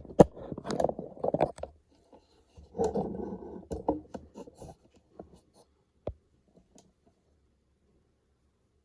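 Handling sounds: a run of clicks, knocks and rustling in the first few seconds, a second burst about three seconds in, a few scattered clicks, then near silence from about six seconds in.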